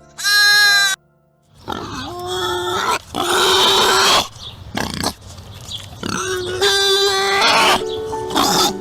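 Pigs squealing and grunting in a run of shrill, noisy calls, after a short pitched bleat at the very start. Background music with held notes comes in near the end.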